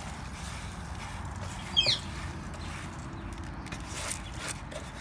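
A caged bird gives one short, sharp call about two seconds in, over a low background rumble with a few soft rustles and clicks.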